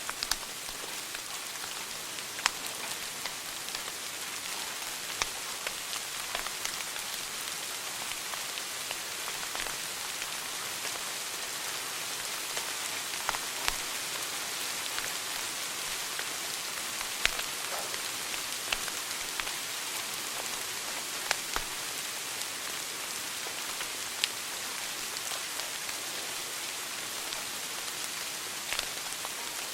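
Wood fire burning in a fireplace: a steady crackling hiss with scattered sharp pops and snaps, about a dozen spread irregularly through it.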